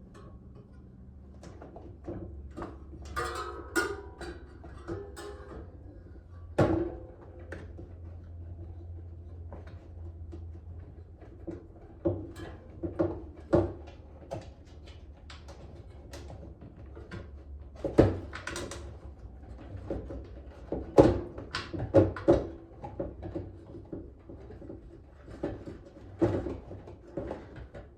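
Irregular knocks, clicks and rubbing as a bicycle tyre and inner tube are worked onto the wheel rim by hand, with the loudest knocks in the second half.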